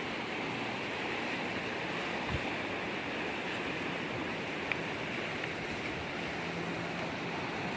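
Steady rush of water, an even noise without pitch, with a faint knock about two seconds in.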